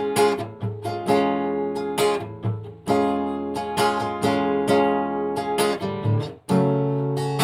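Instrumental music led by a strummed acoustic guitar, playing rhythmic chords in the introduction of a chanson song.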